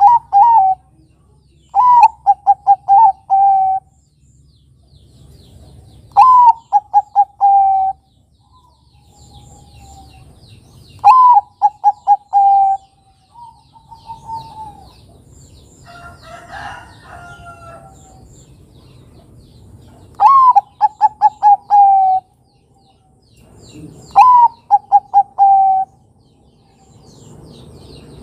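Bangkok-type perkutut (zebra dove) singing its cooing song. Each phrase is a rising first note followed by a quick run of about six clear coos, and the phrase comes back five times, mostly a few seconds apart, with a longer break in the middle.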